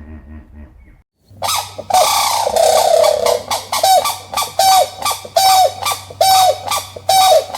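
A farm bird calling loudly and repeatedly, about one call a second, each call held level and then dropping off at the end. It follows a brief low animal sound that cuts off abruptly about a second in.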